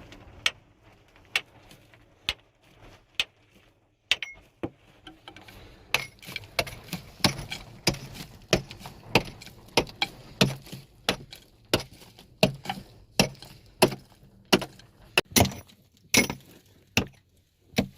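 A series of sharp knocks or strikes, about one a second at first, then quicker and more irregular, about two to three a second, from about six seconds in.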